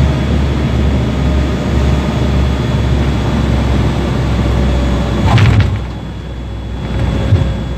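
Steady low engine rumble of an aircraft, with a brief whooshing sweep about five seconds in.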